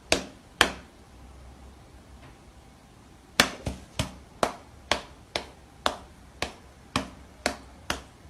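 A series of sharp taps, two near the start and then, after a pause, a steady run of about two a second, each dying away quickly.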